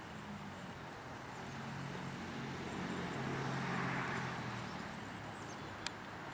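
A vehicle passing by, its noise swelling to a peak about four seconds in and then fading, with a single sharp click near the end.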